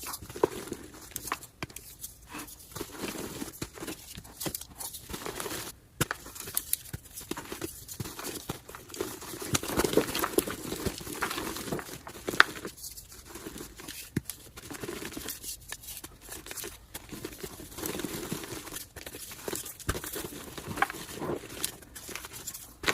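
Blocks of gym chalk being crushed and crumbled by hand, a dense run of crisp crunches mixed with softer crumbling.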